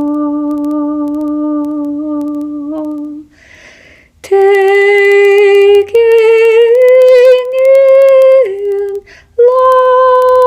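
A woman's voice toning in long held vocal notes. A low hum is held for about three seconds, followed by a breath. Then comes a series of higher sustained notes that step up and down with a slight waver, with a short break and breath about nine seconds in.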